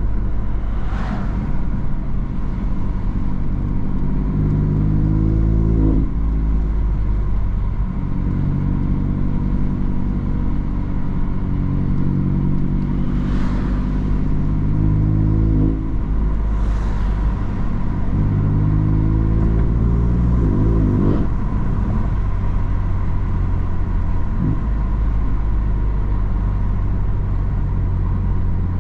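BMW M3 F80's twin-turbo inline-six with an M Performance exhaust accelerating hard through the gears: the engine pitch climbs, then drops sharply at each upshift, several times, with brief rushes of air noise between.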